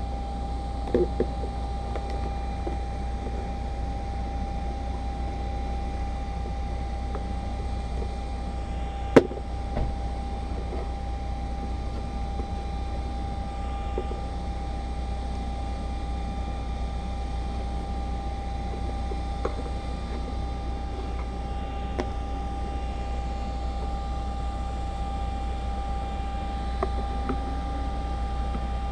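Steady low mechanical hum with a faint constant whine, broken by a few light clicks and one sharp click about nine seconds in.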